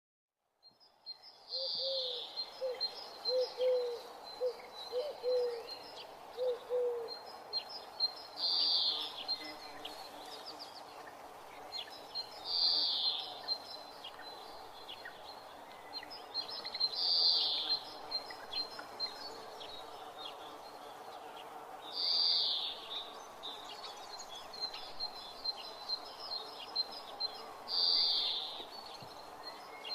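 Birds calling: a call repeated about every four to five seconds over steady chirping, with a short run of low repeated notes in the first few seconds.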